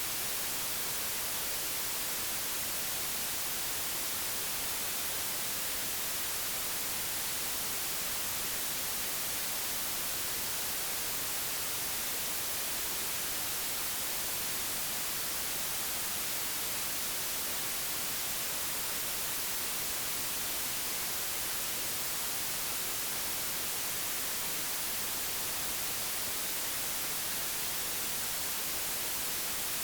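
Steady, unchanging digitally generated white noise: an even hiss, strongest in the high frequencies, with no other sound.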